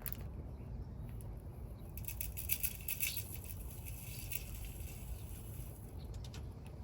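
Light clicks and rattles as a metal bird feeder and bird seed are handled, bunched about two to three seconds in with a few more near the end, over a low steady rumble.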